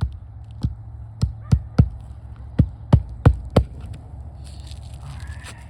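Hammer blows driving 1 1/4 inch roofing nails through an asphalt shingle: about nine sharp strikes in quick, uneven groups over the first three and a half seconds.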